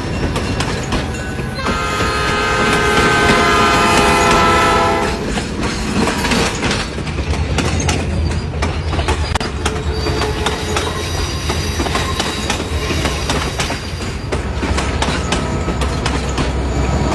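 A passing train sounds its horn for about three seconds, a chord of several steady tones, starting about two seconds in. After it comes the train's steady low rumble with repeated clicks of the wheels on the rails.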